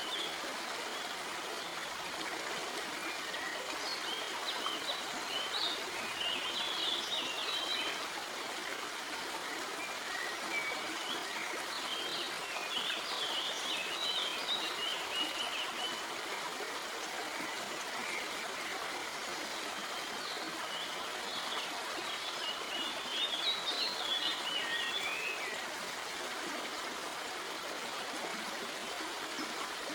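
A stream flowing steadily over rocks, a constant rushing and trickling of water. Small birds chirp over it in short bursts of twittering, several times.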